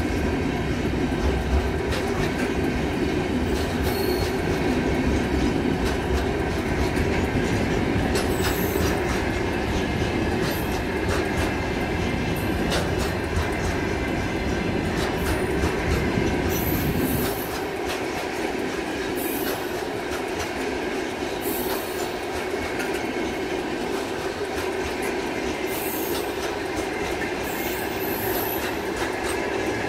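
Freight train's covered hopper wagons rolling past: a steady rumble and clatter of steel wheels on the rails, with brief high wheel squeals every couple of seconds. The low rumble eases a little over halfway through.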